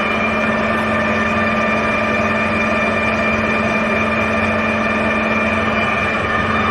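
Clausing Colchester 15" x 50" geared-head engine lathe running under power, its 7-1/2 hp three-phase motor and headstock gearing giving a steady hum and whine, a little louder near the end.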